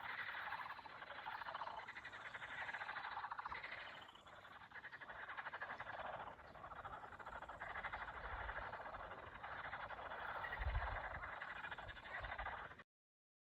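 A chorus of many frogs croaking in rapid pulsing trills that swell and fade in overlapping waves. The sound cuts off abruptly near the end.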